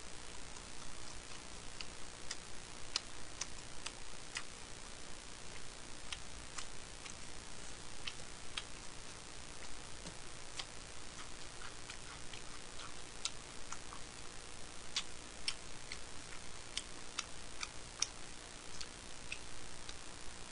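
A person chewing food: small sharp mouth clicks, often in runs of about two a second with pauses between, over a faint steady hiss.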